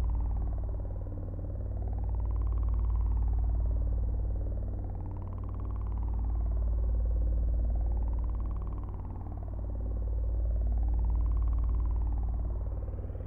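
Droning soundtrack: a deep steady rumble under a tone that glides slowly up and down, rising and falling about once every three seconds, the whole sound swelling and dipping with each cycle.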